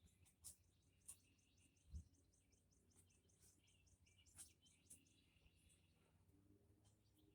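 Near silence, with a faint run of rapid high chirps and a few soft clicks.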